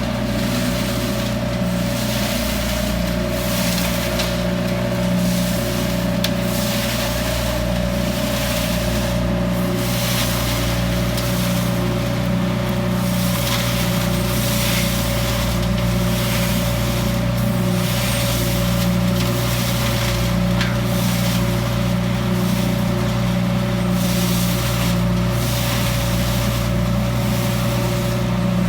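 Leaf collection truck running steadily, a constant machine drone with several held tones that do not change in pitch.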